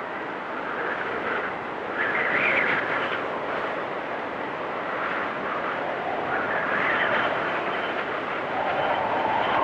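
Storm wind blowing hard and steadily, with whistling gusts that swell about two seconds in and again around seven seconds.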